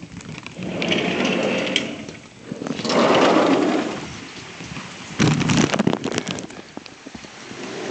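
Plastic sheeting wrapped over a camera crinkling and rubbing against the microphone in three loud bursts of rustling.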